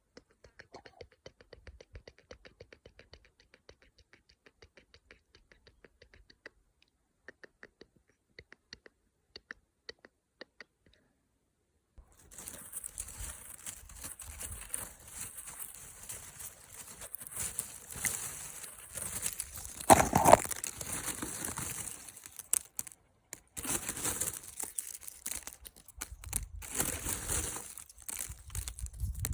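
Quick light tapping, a few taps a second, for about the first twelve seconds. Then a loud, continuing crinkling and crunching, with one louder crunch about twenty seconds in.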